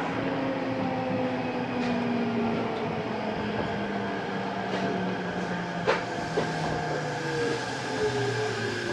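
Odakyu 8000 series electric train heard from inside the car, its Mitsubishi SiC-VVVF inverter and traction motors sounding as several tones that fall steadily in pitch as the train slows. Two sharp knocks from the wheels come about six seconds in.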